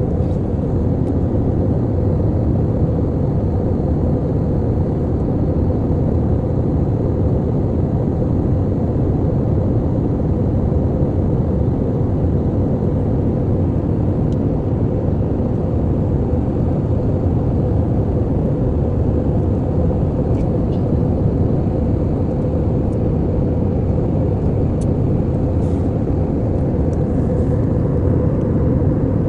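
Airliner cabin noise in flight: a steady, unbroken rush of engine and airflow noise, heaviest in the low end, with a steady hum running through it.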